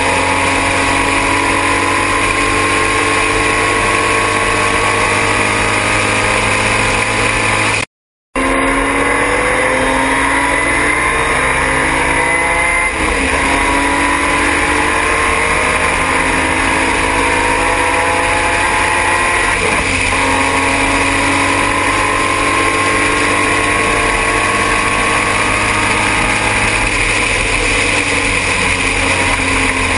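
Triumph TR6 race car's straight-six engine running hard at racing speed. Its pitch climbs and drops back repeatedly with the upshifts and lifts, over steady wind and road noise. The sound cuts out briefly about eight seconds in.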